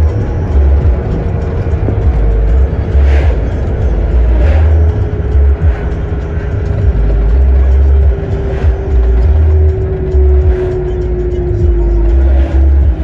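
A motor vehicle running, its drone sliding slowly down in pitch, with music and heavy low thudding over it.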